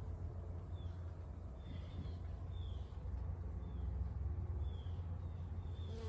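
A small bird repeating a short, falling chirp about once a second over a low steady hum. Right at the end a honeybee starts buzzing close by.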